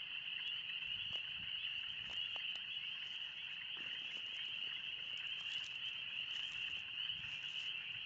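Dense, loud chorus of spring peepers, many frogs peeping at once into one steady high-pitched din.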